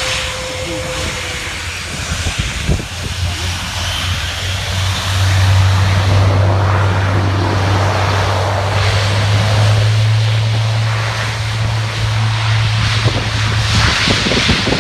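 Airbus A400M's four TP400 turboprop engines running with a steady low propeller drone. The drone grows louder about five seconds in and steps a little higher in pitch later on, as the aircraft powers up for takeoff.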